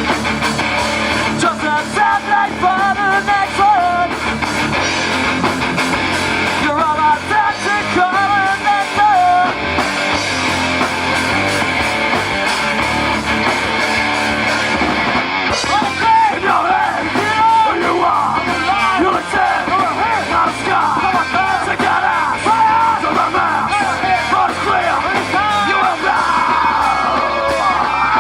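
Live rock band playing loud, with electric guitar and drums under shouted, sung vocals that come in short phrases early on and more continuously in the second half.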